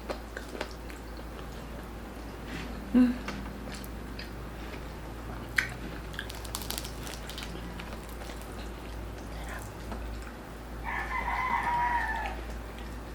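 A rooster crows once near the end, one long call that drops in pitch as it ends, over scattered crunchy clicks of someone eating crispy pork belly. A single sharp knock comes about three seconds in.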